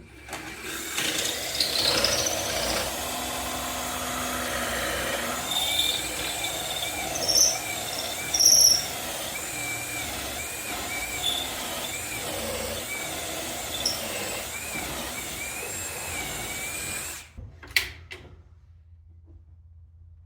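Power drill running under load, boring a hole through wood, its motor whine wavering with a few brief squeals, for about seventeen seconds before stopping suddenly. A short sharp knock follows about a second later.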